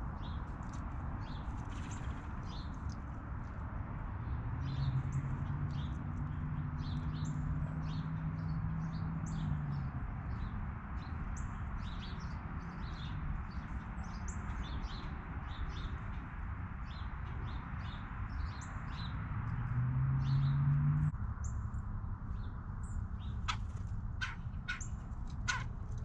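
Backyard songbirds chirping in many short, quick calls over a steady background hiss. A low hum passes through twice. Near the end comes a run of sharp clicks.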